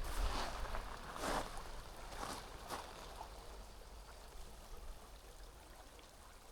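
Creek water running and trickling steadily, with a low wind rumble on the microphone and a few louder gusts in the first three seconds that die away.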